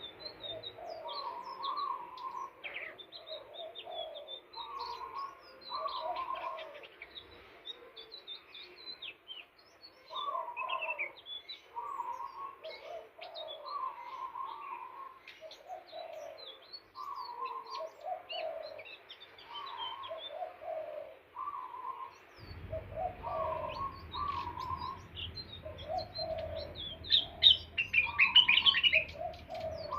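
Indigo flycatcher (sikatan ninon) song: many short, high chirps over a low two-note call repeated every second or two, with a loud run of chirps near the end. A low hum comes in about two-thirds of the way through.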